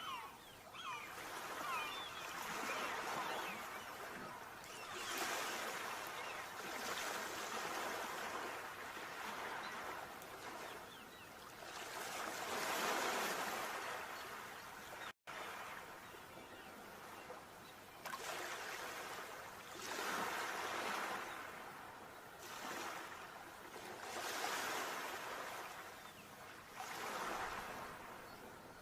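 Sea waves washing in and breaking, the surf swelling and fading every few seconds. The sound drops out for a moment about halfway through.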